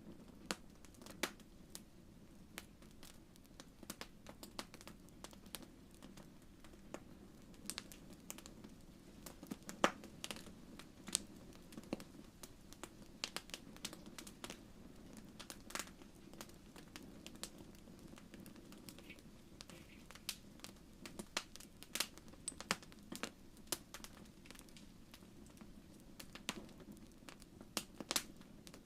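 Wood fire crackling in a fireplace: irregular sharp pops and snaps, a few every second, over a low steady rumble of the flames.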